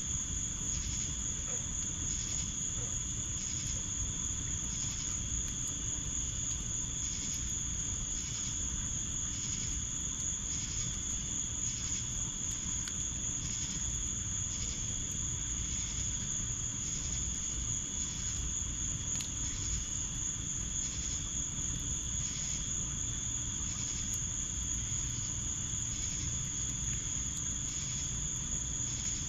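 Summer insects calling: one continuous high-pitched trill, with a second insect chirping in even pulses about once a second, over a steady low rumble and a few faint pops.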